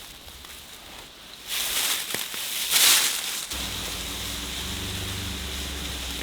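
Rain and wind noise, swelling into a loud rushing gust about two to three seconds in. About halfway through it changes abruptly to a steady low hum under even rain hiss.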